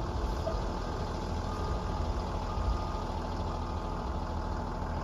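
Bucket truck's engine idling steadily.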